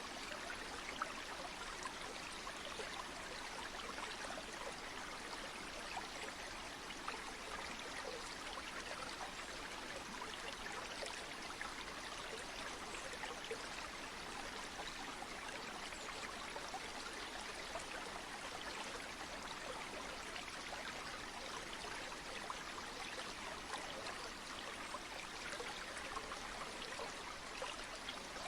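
River or stream water flowing steadily: a continuous rushing with many small trickling splashes, used as natural white noise.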